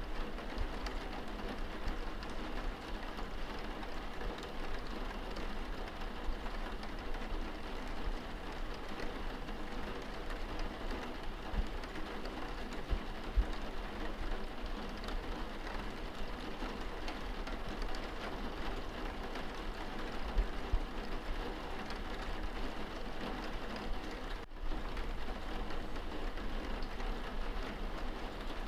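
Steady rain falling on window glass, heard from inside the room, with a low rumble underneath and a few soft low thuds. The rain briefly drops out about 24 seconds in.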